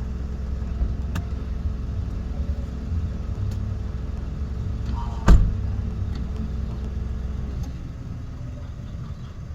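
A car engine running steadily, with a low hum that drops away about three-quarters of the way through, and a single sharp knock about halfway.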